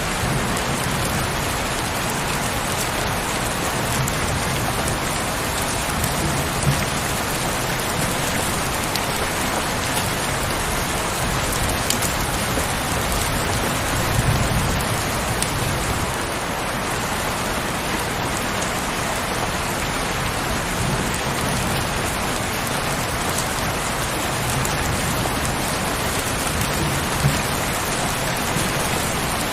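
Heavy rain falling steadily, with a few louder single drops and a brief low rumble about halfway through.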